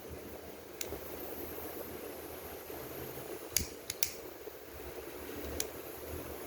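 A handful of short sharp clicks or taps, three of them close together about midway, over a steady low background noise.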